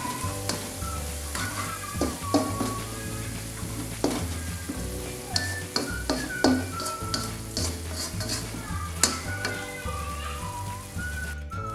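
Food frying in oil in a pan, stirred with a utensil that knocks and scrapes against the pan several times, over background music with a bass line.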